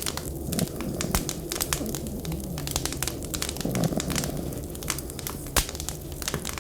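Wood fire crackling, with dense sharp clicks and one louder pop near the end, over a steady low rumble. A few short, low falling tones sound now and then.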